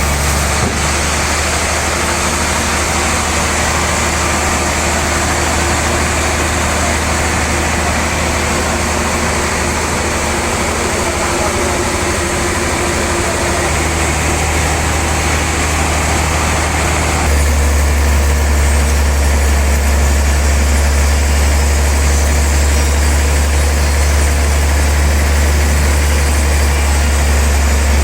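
Large log sawmill machinery running with a steady, deep engine-like hum. About two-thirds of the way through, the low hum grows louder and the higher hiss fades, a change in the machine's running or load.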